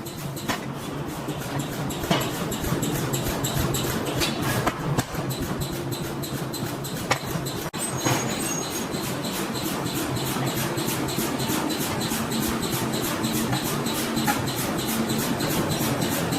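Forging-shop machinery running with a steady hum and a fast, even metallic clatter. There are a few sharp metal clanks in the first half, and the sound jumps abruptly a little before the halfway point.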